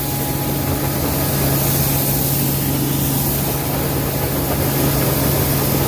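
Combine running while harvesting soybeans: a steady machine drone with a constant low hum.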